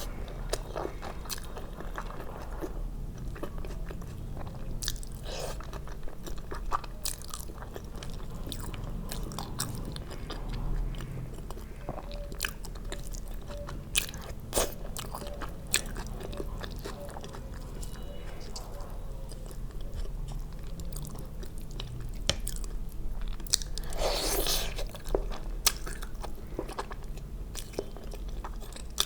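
Close-miked chewing and mouth sounds of someone eating, with many short wet clicks and a louder crunchy burst near the end.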